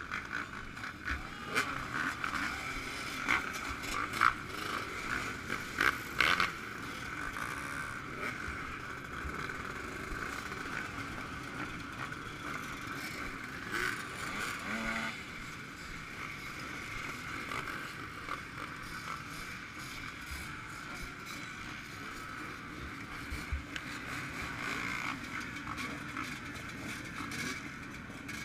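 Yamaha YZ125 two-stroke motocross bike's engine running steadily, with a few sharp knocks in the first several seconds.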